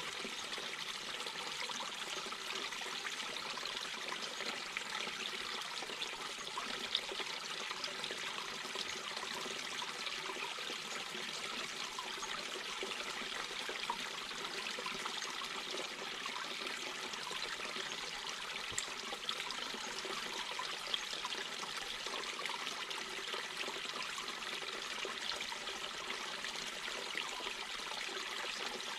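Mountain brook babbling steadily over stones, a continuous trickling and splashing with small brighter splashes here and there.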